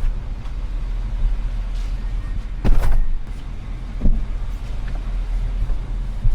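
Truck running with a steady low engine and road rumble. Two sharp knocks cut through it, a loud one a little under three seconds in and a smaller one about a second later.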